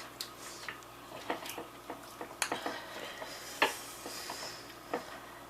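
Scattered small clicks and taps from eating and handling food, at irregular moments, the sharpest a little past halfway.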